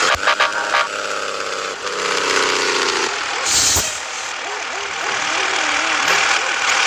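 Scania S 450 truck, heavily laden, running on the road with steady engine and road noise. There are a few clicks in the first second and a short hiss about halfway through.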